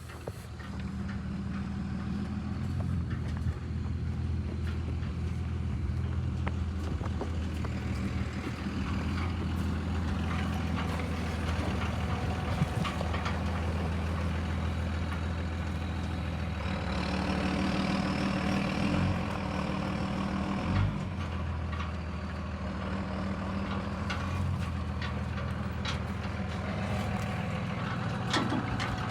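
Truck engine idling steadily, with scattered light knocks and scrapes over it.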